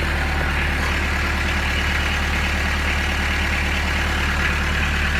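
Kubota B2710's small three-cylinder diesel engine idling steadily as it warms up after a cold start. The owner notes the engine has an exhaust leak.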